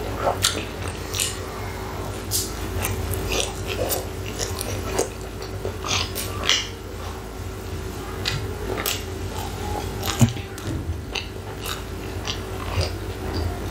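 Close-miked chewing of a mouthful of chicken burger with the mouth closed: irregular wet mouth clicks and smacks, over a faint steady hum.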